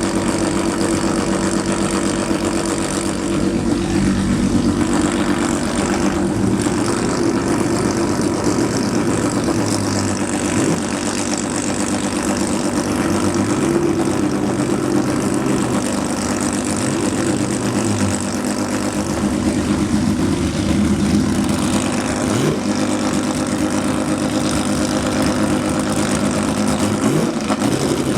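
Flat-six engines of Porsche 906 and Porsche 953 race cars running at low speed. They idle steadily and rev several times, the pitch rising and falling.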